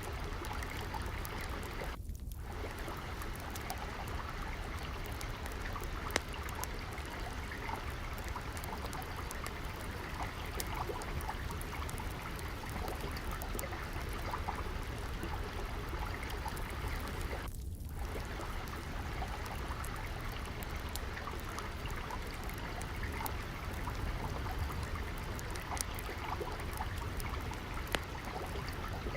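Water trickling and flowing steadily, mixed with scattered small pops and crackles of a wood fire.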